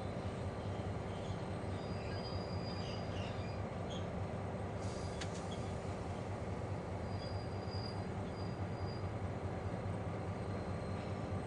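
Diesel-hauled narrow-gauge iron ore train running: a steady low engine rumble with a held hum, and wagons rolling. Brief high wheel squeals come about two seconds in and again around seven to nine seconds, with a short hiss about five seconds in.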